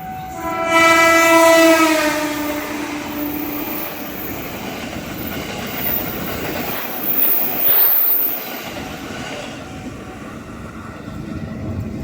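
KRL electric commuter train sounding one long horn blast of about three seconds that sags slightly in pitch as it ends, then running past with wheels clattering on the rails.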